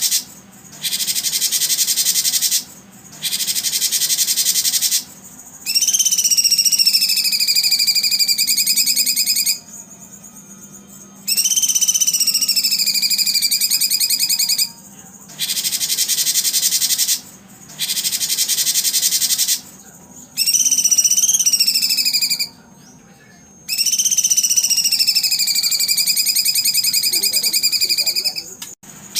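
Recorded wild calls played as training audio for competition songbirds. Bursts of shrill, buzzing trills a few seconds long alternate with short pauses. Several of the bursts carry a long whistled note that drops in pitch and then holds steady for about three seconds.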